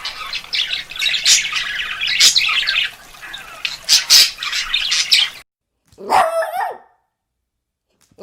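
Dog sounds: about five seconds of dense, high-pitched yapping and chirping calls, cut off abruptly, followed about a second later by a single short bark.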